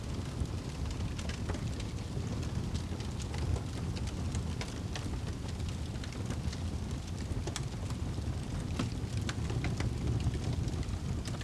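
Wood fire crackling and popping: sharp irregular snaps over a steady low rumble.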